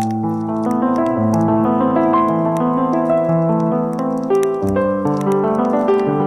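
Background piano music: held notes and chords with a melody above them.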